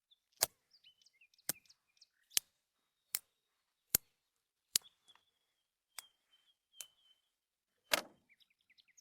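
A series of sharp clicks or knocks, about one a second, with the last one, near the end, the loudest. Between them small birds chirp with short, quick, high notes.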